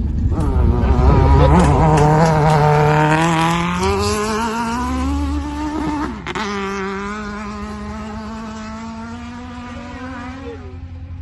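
Racing engine under hard acceleration, its pitch climbing steadily, then dropping sharply about six seconds in as it shifts up, and carrying on at lower revs while it grows fainter.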